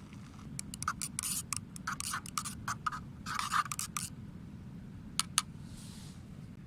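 A quick, irregular run of light clicks and scrapes, like small objects being handled, then two sharp clicks and a brief soft hiss, over a steady low rumble.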